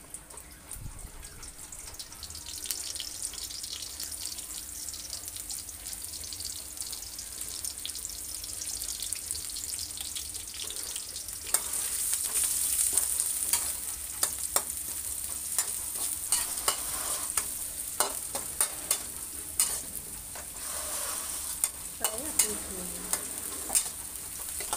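Food sizzling as it is stir-fried in a steel wok over a portable gas burner, with a metal spatula scraping and clicking against the wok. The sizzle gets louder about halfway through, and the spatula strikes come sharper from then on.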